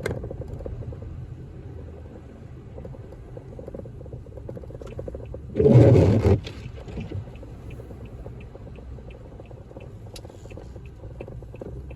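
Steady low road and engine rumble inside a car driving on a slushy, snow-covered road. About halfway through there is a loud rushing burst lasting under a second, then a faint rapid even ticking, about three ticks a second, through the last few seconds.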